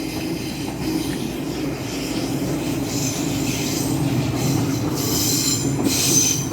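Class 701 electric multiple unit approaching on the rails: a steady running rumble growing gradually louder, with high-pitched wheel squeal coming in about halfway through and building.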